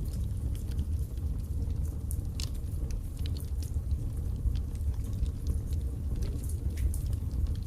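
Wood fire burning in a fireplace: a steady low rumble of the flames with frequent small, sharp crackles and pops of burning wood scattered throughout.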